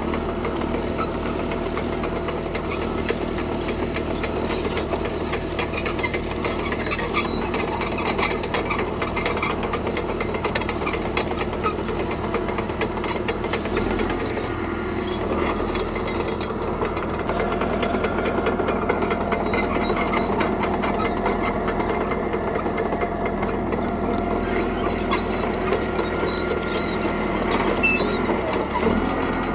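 CAT D3K crawler bulldozer's diesel engine running steadily under load, with the steel tracks clicking and squeaking as it pushes and spreads gravel. The engine note shifts about halfway through.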